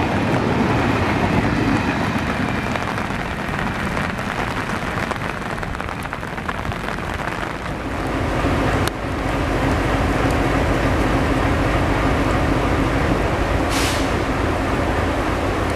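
Express train coaches rolling past on wet track, their rumble easing as the train draws away. About nine seconds in it changes abruptly to steady rain with a low hum, and a brief sharp hiss comes near the end.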